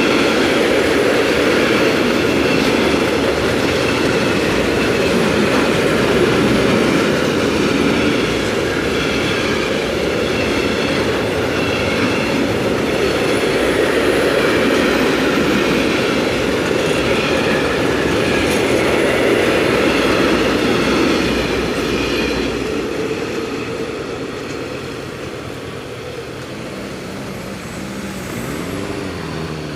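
A long freight train of tank wagons rolling past over a level crossing, with steady wheel rumble and clickety-clack and some wheel squeal. The noise eases off from about two-thirds of the way through as the train moves away.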